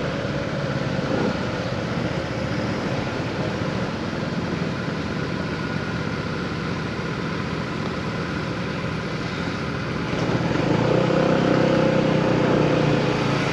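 Engine and road noise of a vehicle heard on board while moving steadily through traffic. About ten seconds in, the engine note rises and gets louder as it accelerates.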